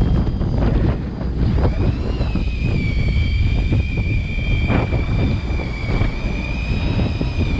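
Wind buffeting the microphone over the low rumble of a fishing boat's engine and the sea. About two seconds in, a small motor spins up into a steady high whine that holds on, typical of an electric fishing reel winding in line.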